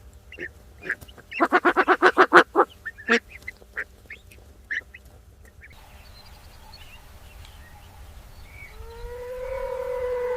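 Waterfowl calling: a rapid run of short honking quacks, then a few scattered calls. Near the end a long canine howl begins, rising in pitch.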